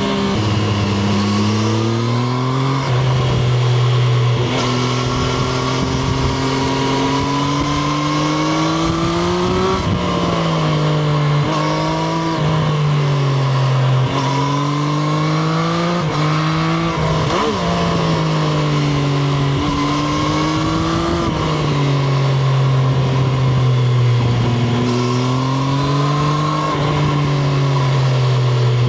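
Triumph Street Triple RS 765 cc inline-three engine heard onboard under riding. The engine pitch climbs and drops repeatedly as it is worked up through the revs and the gears change, with a brief sharp rev spike about halfway through, over steady wind and road rush.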